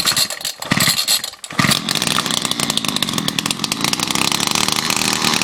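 Homelite HLT-16 Classic 30 cc two-stroke string trimmer being cold-started on choke: a pull or two of the starter cord with brief sputters, then the engine catches about a second and a half in and runs steadily and loudly. The owner says the muffler needs to be pulled apart and cleaned out.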